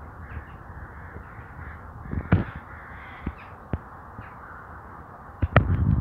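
Birds calling steadily in the background, with a few sharp clicks and a louder cluster of them near the end.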